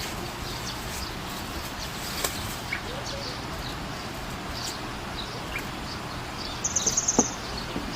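Sunbird giving short, high chirps over a steady background hiss, with a quick run of rapid high notes about seven seconds in.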